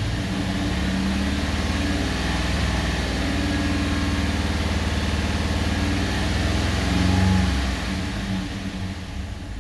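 Truck engine with a newly swapped camshaft idling, heard from inside the cab. The revs rise briefly about seven seconds in, then sag and run unevenly near the end: the idle dropping too low and bogging after the throttle is let off.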